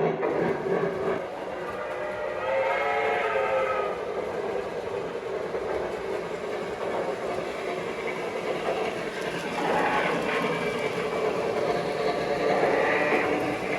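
Lionel Legacy L2a Mohawk O-gauge model steam locomotive running, its onboard sound system playing steam-engine effects with a whistle blowing about two and a half seconds in and again in the last few seconds, over the rolling noise of the train on the track.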